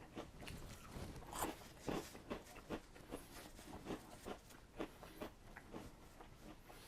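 Faint crunching and chewing of Cheetos Crunchy, with irregular crisp crackles a few times a second.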